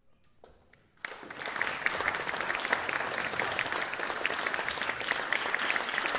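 Audience applause breaking out about a second in after a near-silent pause, quickly rising to steady clapping.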